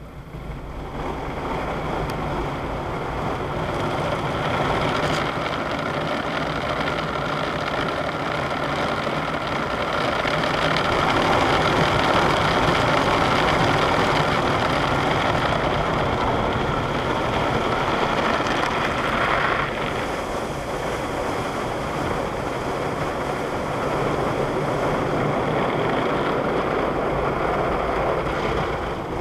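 Automatic car wash running over the car, heard from inside the cabin: a steady rush of water spray and washing machinery. It builds over the first few seconds, is loudest in the middle, and its higher hiss drops off suddenly about two-thirds of the way through as the wash changes stage.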